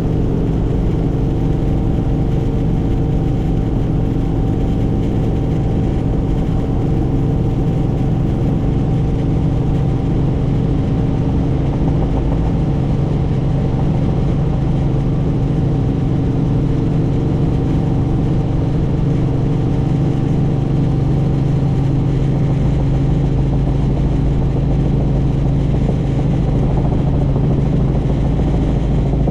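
Helicopter in flight, its engine and rotor running steadily: a constant pitched hum over a heavy low rumble.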